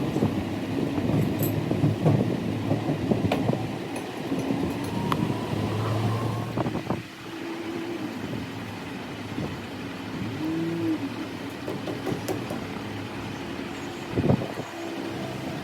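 Vehicle traffic rumble with scattered sharp clicks and knocks.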